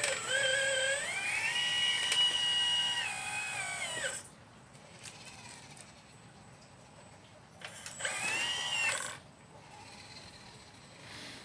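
Electric motor whine from a 1/12-scale radio-controlled Liebherr 954 excavator model as it moves. The whine climbs in pitch about a second in, holds for a couple of seconds and dies away after about four seconds. A second, shorter whine rises and falls around eight seconds in.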